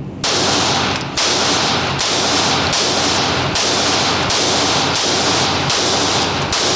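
Rapid gunfire at a shooting range: a string of shots starting a quarter second in, roughly one to two a second. They are loud enough that the sound stays pinned at a high level between shots.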